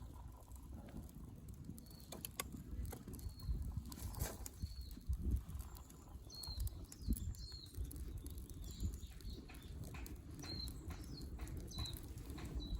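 Wind rumbling on the microphone, with scattered small crackles and pops from a campfire and a series of short, high bird chirps.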